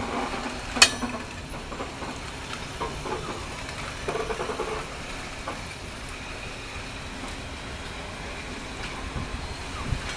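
A train moving on the track. A sharp click comes a little under a second in, and scattered smaller knocks follow over a steady noise.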